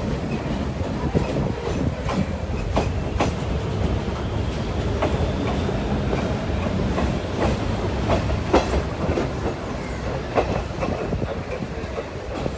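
Sri Lanka Railways train running along the track: a steady low rumble broken by sharp clicks at uneven intervals as the wheels pass over rail joints.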